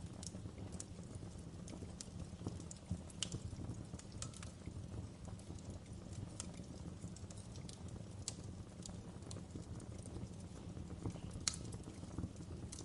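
Wood fire crackling, with irregular sharp pops scattered over a steady low rumble.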